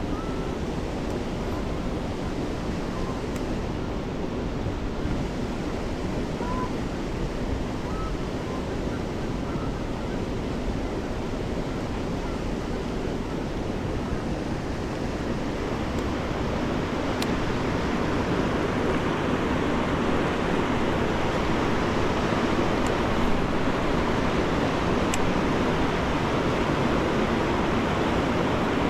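River water rushing steadily, growing louder about halfway through.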